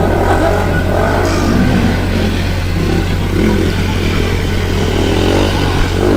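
Motorcycle engines running and revving, with pitch rising and falling, over a steady low rumble.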